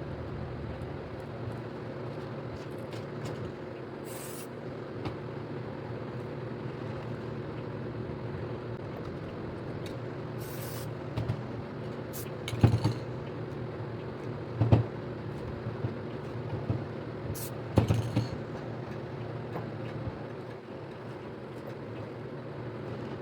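Spray paint can hissing in a few short bursts, with several sharp knocks between them, over a steady low hum.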